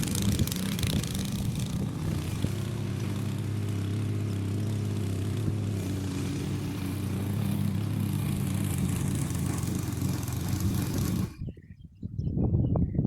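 A small engine running steadily at an even speed, cutting off abruptly about eleven seconds in; short irregular knocks follow near the end.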